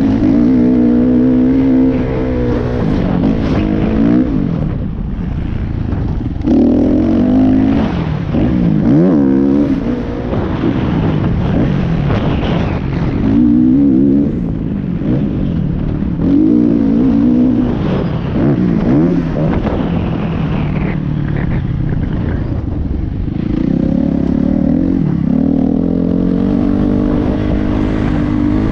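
Motocross bike engine revving hard in repeated surges, its pitch climbing and dropping several times as the rider works the throttle.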